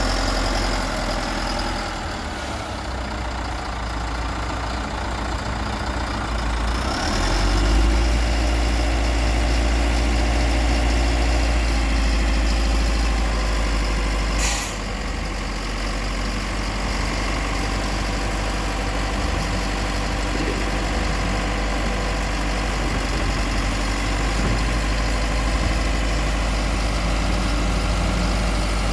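Heavy construction-machine engine running steadily with a deep low rumble, getting louder about a quarter of the way in. A single sharp click about halfway through.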